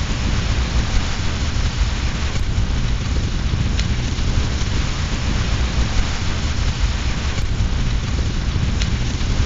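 Steady rain over a continuous low rumble, with a few faint, sharp clicks at irregular moments.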